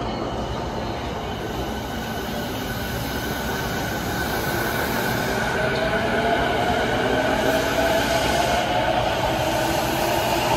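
Electric commuter train running on the tracks, getting louder, with a whine that slowly rises in pitch over the rumble of the wheels.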